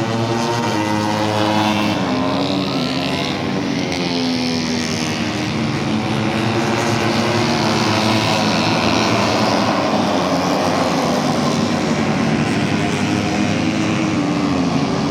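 MotoGP racing motorcycles' engines running at high revs on track, their pitch gliding slowly up and down as they pass, over a steady background din.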